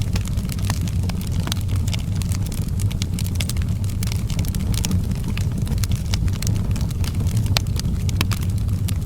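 Outdoor wood fire burning, with frequent sharp irregular crackles and pops over a steady low rumble.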